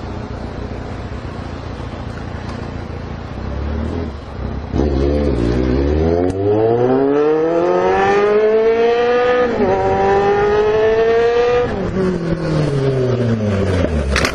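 A low rumble for the first few seconds. Then a motorcycle engine revs up, its pitch rising steadily, dipping once at a gear change and rising again, before it falls away as the engine slows near the end.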